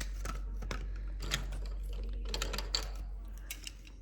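Irregular light clicks, taps and rustling of small objects being handled and moved about, over a steady low electrical hum.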